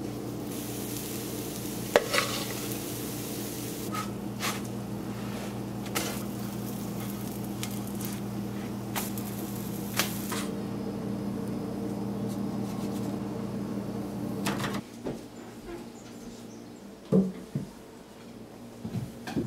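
Pancake batter sizzling on a hot griddle over a steady hum, with a few sharp clicks and taps. Both stop abruptly about three-quarters of the way through, leaving a quieter background with a few short knocks.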